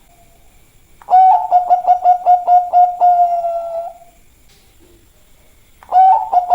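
Bangkok-strain zebra dove (perkutut) cooing: a loud, rapidly pulsed coo at one steady pitch lasting about three seconds and trailing off, then after a pause a second coo begins near the end.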